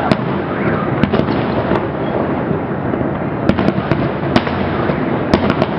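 Fireworks salute: a continuous rumble of bursts with sharp cracks scattered through it, several in quick succession around the middle and again near the end.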